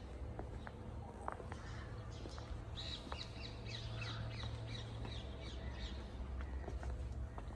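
Outdoor birds calling: a quick run of short, falling high-pitched notes about three to five seconds in, over a steady low rumble.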